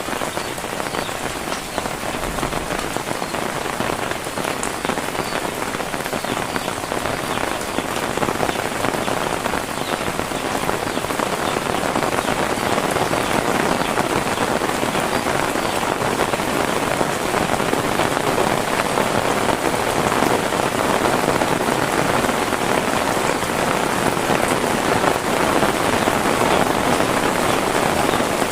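Heavy rain pattering steadily on surfaces, a dense hiss with fine close drop crackle, growing a little louder partway through.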